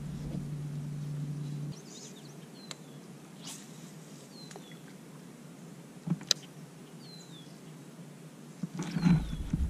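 A bird repeats a short, high, downward-slurred chirp every two seconds or so. Two sharp clicks sound in the middle, from rod and reel handling. A low rumble plays in the first second and a half, and a louder burst of handling and kayak noise comes near the end.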